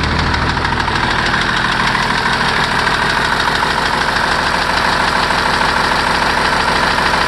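First-generation 5.9 Cummins 12-valve inline-six diesel idling with a steady diesel clatter just after a cold start at about 20 °F, with no grid heater, already running on all six cylinders.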